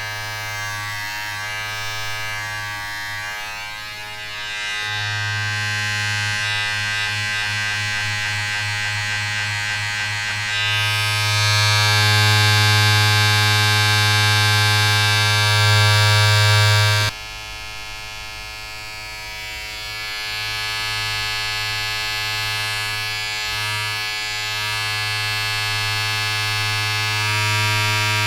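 Steady electric buzz of a small motor, a low hum with a bright overtone-rich edge. It swells louder twice in the first half, drops suddenly about two-thirds of the way through, then builds again.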